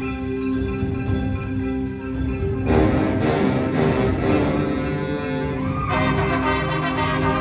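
Wind ensemble with percussion playing held chords; the full band comes in louder about three seconds in, and the sound rises and brightens again about six seconds in.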